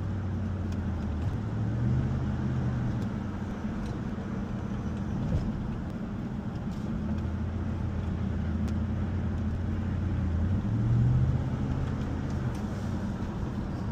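Motor vehicle engine running steadily, as when being driven, its low hum shifting up and down in pitch a few times as the revs change.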